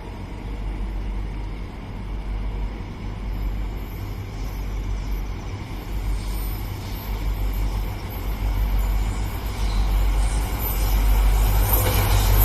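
Two WDG4 diesel locomotives hauling a loaded oil tanker train: a deep, steady engine rumble that grows louder in the last couple of seconds.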